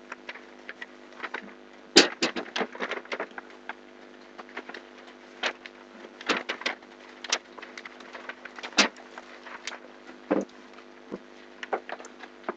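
Irregular clicks and knocks of objects being handled, in a quick cluster about two seconds in and scattered after that, over a steady low electrical hum.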